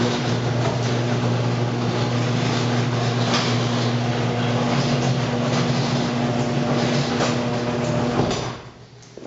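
Sears 139.53985 half-horsepower chain-drive garage door opener running, lowering a heavy double wooden garage door: a steady motor hum under the noise of the moving door, stopping suddenly about eight seconds in as the door closes.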